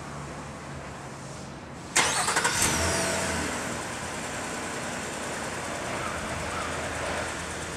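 Nissan E52 Elgrand engine being remote-started: about two seconds in the starter cranks briefly and the engine catches at once, running fast and uneven for a moment before easing down to a steady idle.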